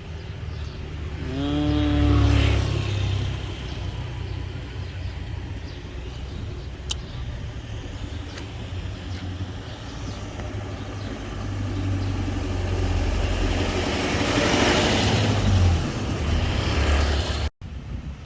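A motor vehicle passing with a low rumble that swells to a peak in the second half and then fades. A short pitched call sounds about two seconds in.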